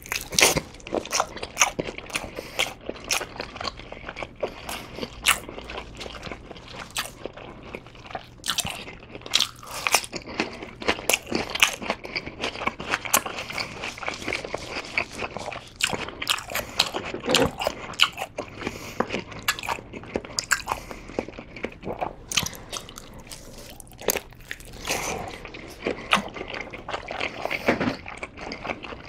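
Close-miked biting and chewing of sundae (Korean blood sausage), bitten straight off the end of a whole sausage: a dense, continuous run of sharp mouth clicks.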